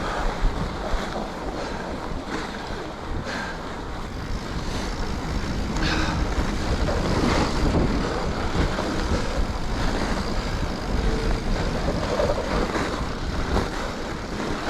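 Wind rushing over the microphone and the steady tyre noise of a mountain bike with wide 2.8-inch tyres at low pressure rolling along groomed, packed snow, with occasional knocks and rattles from the bike.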